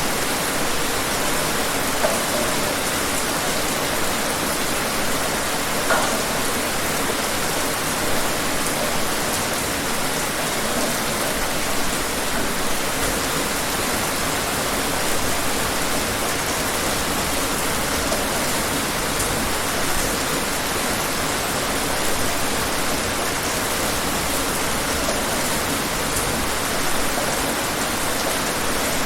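Steady rain falling, an even hiss with now and then a louder single drop standing out.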